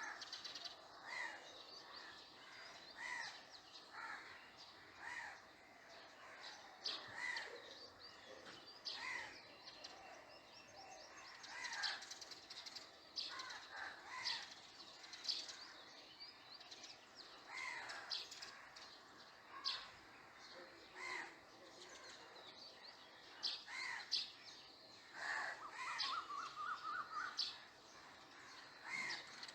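Several birds calling and chirping, short calls repeating every second or two, with a quick run of rising notes near the end.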